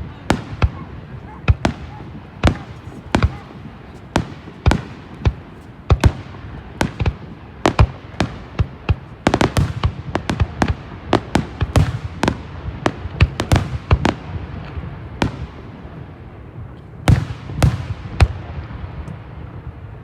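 Starmine fireworks barrage, including time-lag (jisa-shiki) shells: a rapid run of sharp bursts, each echoing briefly, packed densest about halfway through and thinning out near the end.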